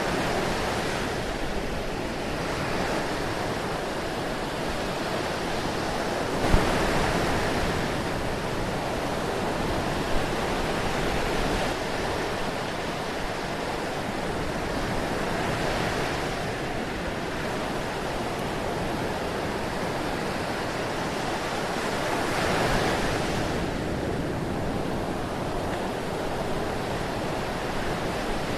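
Ocean surf: a continuous rush of waves washing in and breaking. It swells every several seconds, with a sharper crash about six seconds in.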